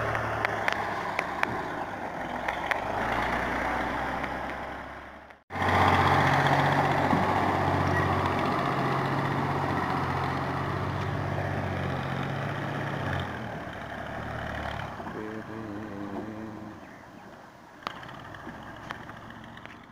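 Tractor engine running steadily at idle. It breaks off abruptly about five seconds in, carries on again, then grows weaker over the last few seconds.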